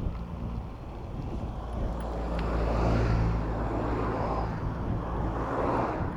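Road traffic: a nearby motor vehicle's engine running with a steady low hum that grows louder through the middle, over wind rush on the microphone.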